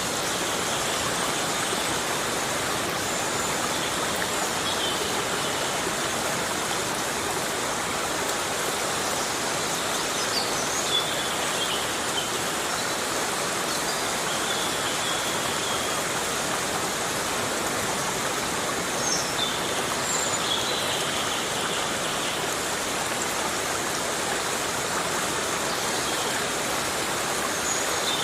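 Heavy rain falling steadily on a rainforest, an even unbroken hiss, with a few brief high chirps now and then.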